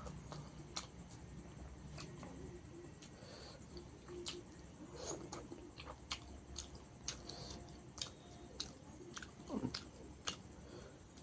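Mouth sounds of someone eating rice with tilapia fish curry: quiet chewing broken by short, sharp wet clicks and smacks, about one every half second to second.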